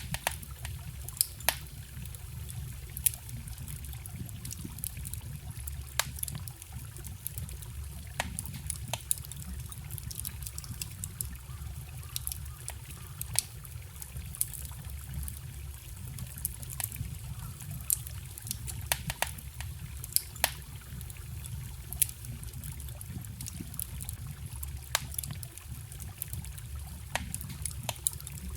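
Wood campfire crackling, with sharp irregular pops and snaps, over the steady low rush of a forest stream.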